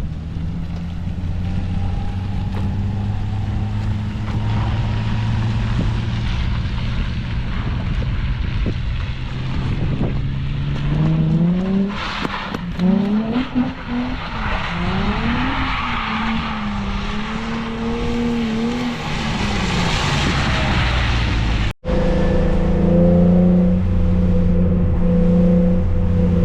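Car engine running steadily, then revved up and down repeatedly with tyre noise as the car drifts. The sound cuts out for an instant near the end, and the engine then runs steadily again.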